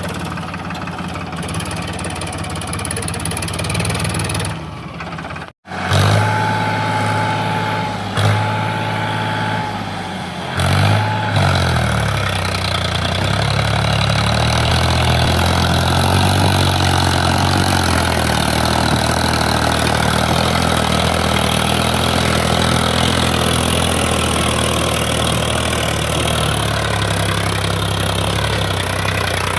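Powertrac Euro tractor's diesel engine running, its pitch rising and falling for a few seconds midway and then holding steady. The sound breaks off briefly about five seconds in, and a high steady tone sounds three times shortly after.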